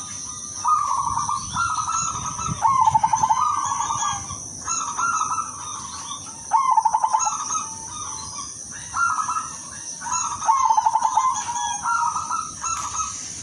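Zebra dove (perkutut, silver colour form) cooing: phrase after phrase, about one a second, each with a fast stuttering run of notes. A steady high hiss runs underneath.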